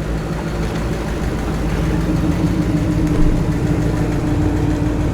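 A car's engine running at low speed as the car rolls slowly past, a steady low engine note that grows a little louder over the first few seconds.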